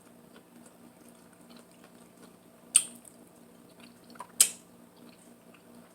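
Wet mouth sounds of someone eating: two short smacks about a second and a half apart, with faint small clicks in between.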